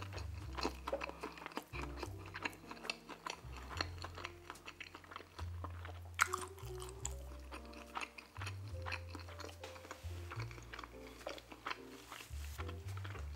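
Close-miked wet chewing and mouth clicks from a mouthful of stuffed-crust pepperoni pizza, over background music with a slow bass line. About six seconds in there is a louder click as he sips from a soda can.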